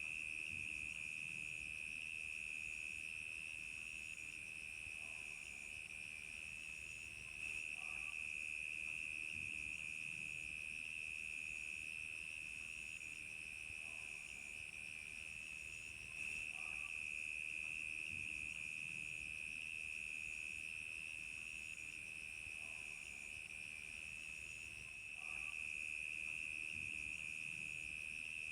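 Crickets chirping: a steady, high-pitched trill, with a second, higher chirp pulsing about once a second over it.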